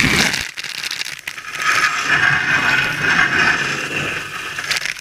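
Dishwasher spray arms spraying water inside the tub, a steady hiss of water now that the circulation pump is working, with a few clattering knocks near the start, about a second in and near the end.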